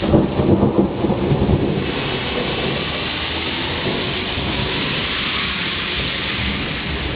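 A thunderclap rumbling loudly for the first couple of seconds over heavy, steady rainfall, with the rain hissing on alone after the thunder fades.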